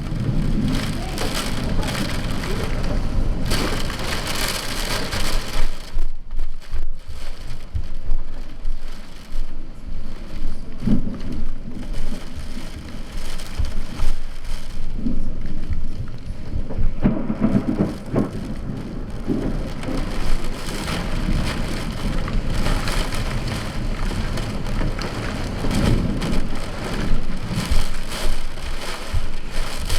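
Heavy rain pouring down in a thunderstorm, with thunder rumbling low several times.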